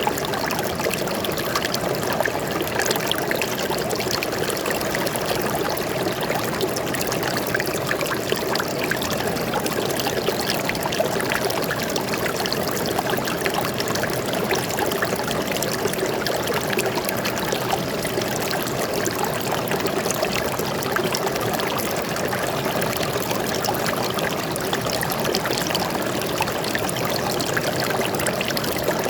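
Stream water flowing and trickling in a steady, unbroken rush.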